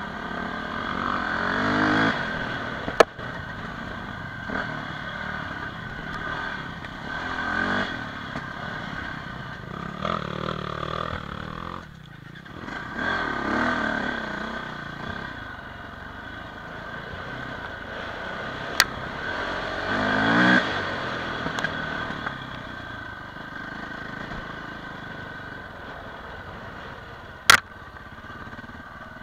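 Dirt bike engine being ridden over a rough trail, rising in pitch in several swells of revving as the throttle is opened and eased off. A few sharp knocks stand out over the engine.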